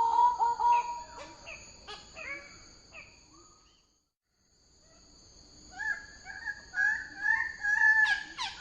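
Bird-of-paradise calling: loud series of rapid, repeated ringing notes. The calls fade, cut to silence for about a second midway, then start again higher and build, over a steady high-pitched tone.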